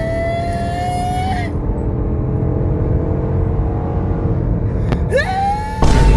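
Car engine and exhaust under acceleration, the engine note climbing slowly over the first second and a half. About five seconds in the revs sweep up quickly and, just before the end, the exhaust rumble gets suddenly louder and deeper.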